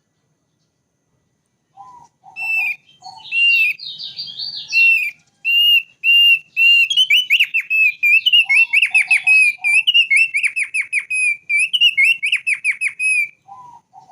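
Thick-billed white-eye singing: after a couple of seconds of quiet, a long run of quick, repeated whistled notes, faster and denser in the second half. Short groups of lower notes come in a few times.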